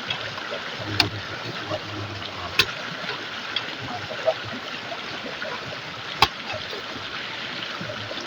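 Clear river stream flowing steadily, with three sharp clicks over it.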